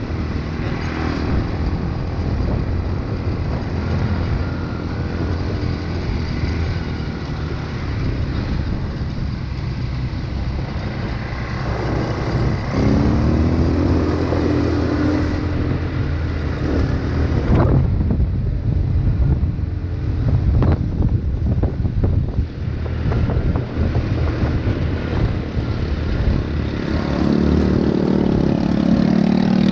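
ATV engine running steadily while riding, its pitch rising as it speeds up about halfway through and again near the end. A few sharp knocks come about two-thirds of the way in.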